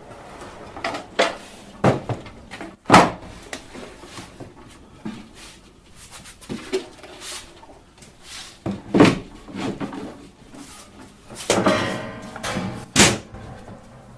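Beehive kit parts being handled and set down: a series of scattered wooden knocks and clunks, strongest about three seconds in, about nine seconds in and near the end.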